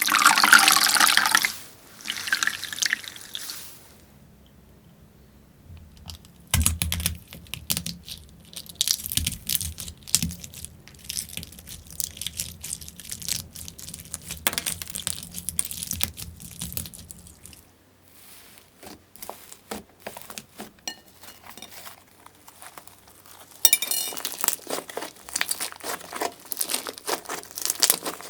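Slime being squeezed and worked by hand, with wet squishing and many small pops and clicks. The sound comes in separate stretches: a loud squelch at the start, a short lull, dense popping, then thinner popping, and dense crackling near the end.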